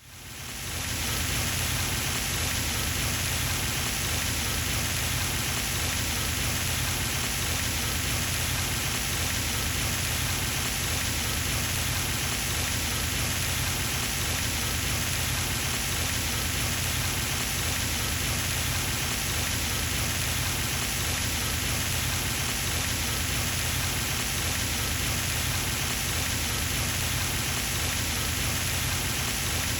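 Pond fountain's spray falling back onto the water, a steady splashing rush that fades in over the first second and then holds even.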